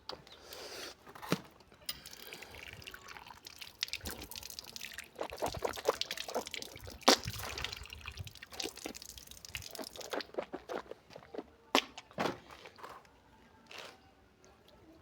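Wet, irregular splashing and dripping with scraping clicks from brushing teeth and rinsing with water. It is busiest for about the first ten seconds, then thins to scattered clicks and drips.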